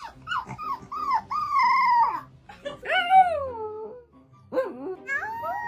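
Dog howling in a series of high, wavering calls; one long call near the middle slides down in pitch.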